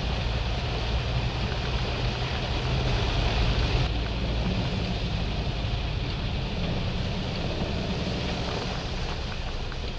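Steady rushing noise of water in a torrential rainstorm, with wind rumbling on the microphone.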